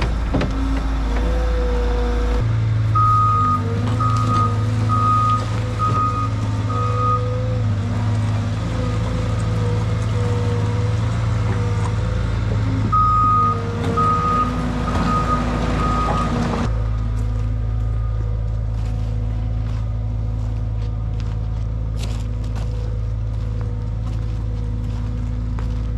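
Skid steer engine running steadily while its reverse alarm beeps about once a second in two runs: about five beeps a few seconds in and about four more past the middle.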